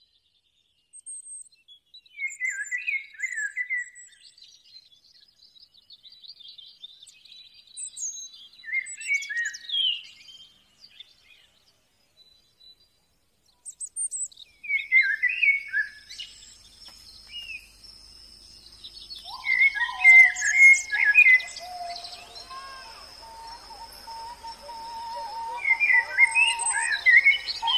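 Birds chirping and calling in short clusters, with near-silent gaps between them at first. About halfway through, steady high tones and a lower held tone come in beneath the continuing chirps.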